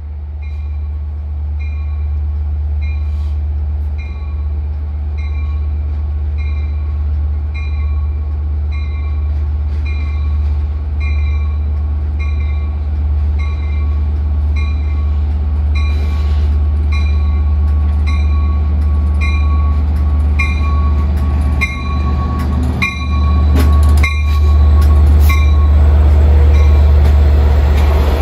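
Long Island Rail Road diesel-hauled train with bi-level coaches approaching and rolling in alongside, with a low rumble that grows steadily louder and is loudest near the end as the coaches pass close by. A warning bell dings evenly through most of it, about three dings every two seconds.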